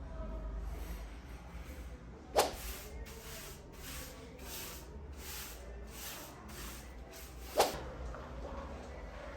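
Rhythmic swishing cleaning strokes, about two a second, between two sharp knocks.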